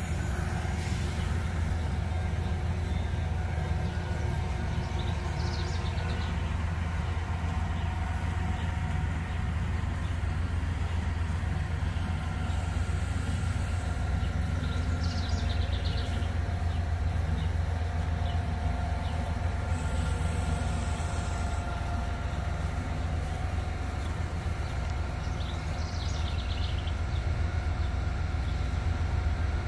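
Freight train cars rolling past on the rails: a steady low rumble that holds even throughout.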